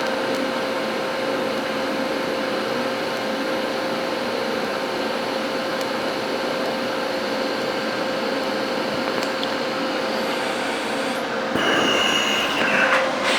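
TIG welding arc on stainless steel: a steady hiss with a constant hum under it, changing briefly near the end.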